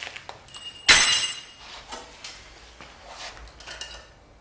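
Metal tools and engine parts clinking against each other, with one loud metallic clank about a second in that rings briefly, then a few lighter clinks.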